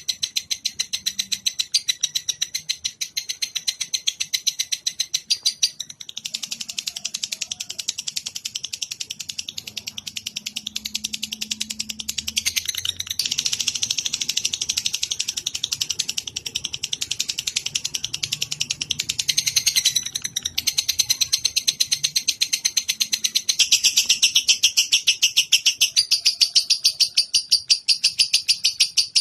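A rapid, evenly repeated train of high, sharp chirps, about four a second. This is a recorded masteran call of the kind used to teach captive songbirds. Its pattern shifts a few times: about 6 s in, near 13 s, near 20 s, and louder from about 24 s.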